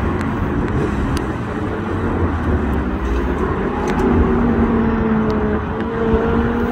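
Short-wheelbase Porsche's air-cooled engine running through an autocross run, its pitch dipping and rising as the driver comes off and back on the throttle through the cones.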